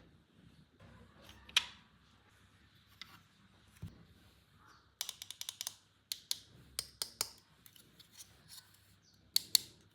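Sharp clicks and taps of plastic toy parts and packaging being handled: a single loud click about a second and a half in, a quick run of clicks around the middle, and a close pair near the end.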